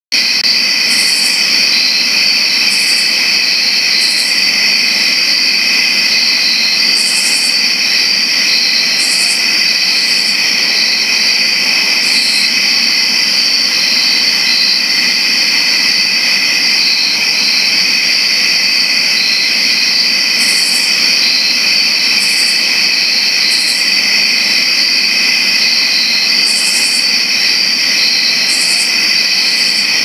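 Dense chorus of crickets chirping steadily at several pitches at once, with short, higher-pitched bursts of chirping coming and going every second or two.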